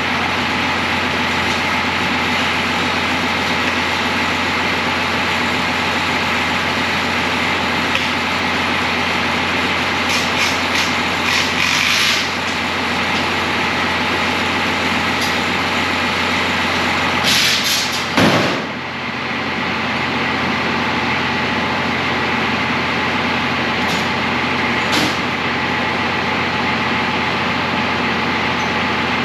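M35 deuce-and-a-half truck's turbocharged diesel engine, fitted with a Schweitzer Whistler turbo, running steadily. Hissing bursts come about ten seconds in and again near the middle; the second ends in a quick falling sweep.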